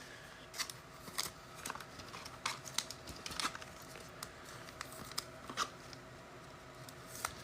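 Faint, irregular clicks and light rustling of trading cards and their packaging being handled and sorted on a table.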